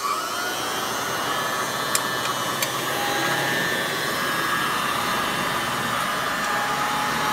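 Hoover Model 300 upright vacuum cleaner's motor rising to speed just after switch-on, then running steadily with its beater-bar brush roll turning. Two faint ticks about two seconds in.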